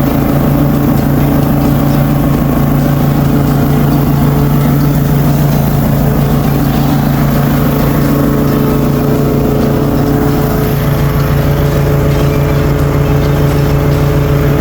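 Ride-on mower engine running steadily under load, a constant loud hum.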